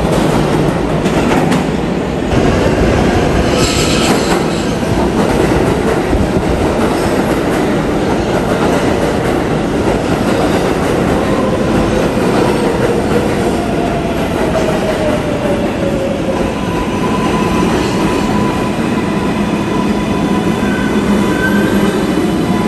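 Subway train running loudly along the track, with its wheels squealing in thin drawn-out tones from the middle on.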